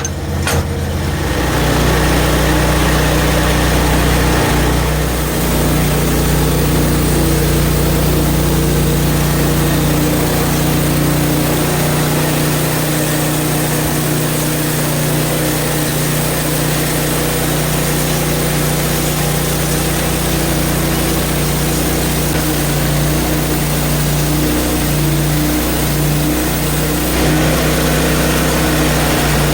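Portable bandsaw sawmill's 23 hp Briggs & Stratton engine running steadily under load as the band blade cuts through a frozen log, the cutting noise growing about five seconds in.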